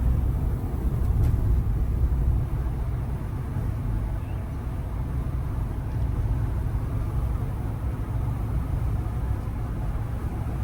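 Steady low engine and road rumble inside the cab of a pickup truck driving along.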